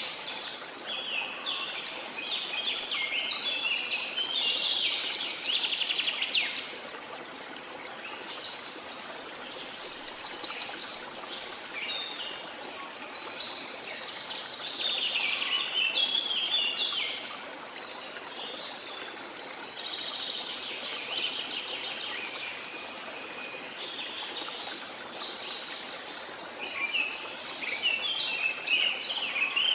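Birds singing in repeated phrases of rapid high chirps, coming and going every few seconds, over the steady rush of a waterfall.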